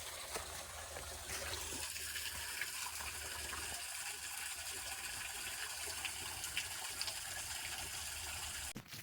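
Creek water flowing steadily, an even rushing sound that cuts off abruptly just before the end.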